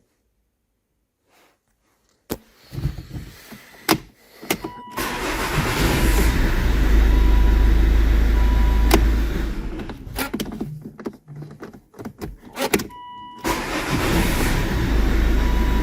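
Volvo car engine being started and running steadily. It eases off around ten seconds in, and after a few clicks and a short dashboard chime tone it is started again and runs.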